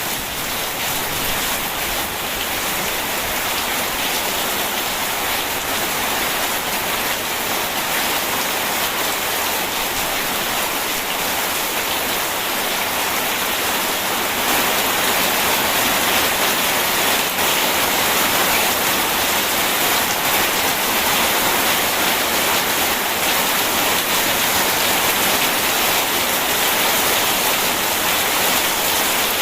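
Steady rain, an even dense hiss with no thunder, getting slightly louder about halfway through.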